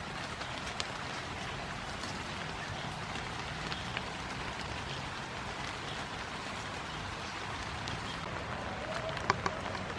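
Steady hiss of rain falling on grass, with a few sharp clicks near the end.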